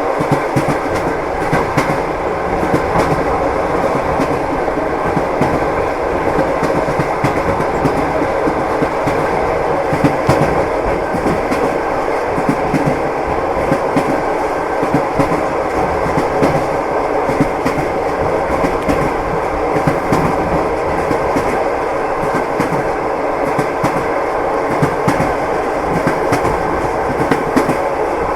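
Moving train running steadily, its wheels knocking over the rail joints in a continuous clickety-clack over an even rumble.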